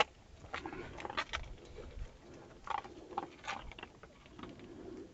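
An animal eating dry kibble: faint, irregular crunching and small clicks, with a sharp click at the very start.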